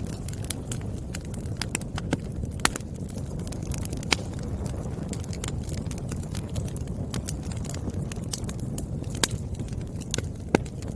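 Wood fire crackling: a steady low rush of burning logs with irregular sharp pops and snaps of the firewood, a few louder pops about four seconds in and near the end.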